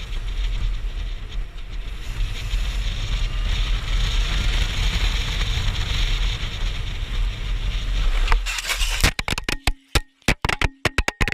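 Heavy wind and road noise rushing over the microphone of a camera on a moving motorcycle, steady, with a deep rumble and no clear engine note. About eight seconds in it breaks up into a rapid string of sharp, chopped bursts with brief gaps of silence between them.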